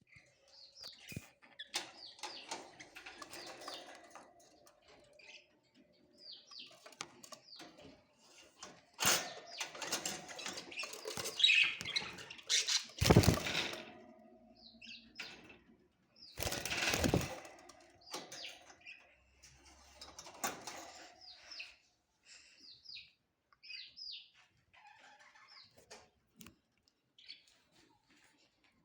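Budgerigars chirping in many short, high calls, with several loud bursts of fluttering wings in the middle.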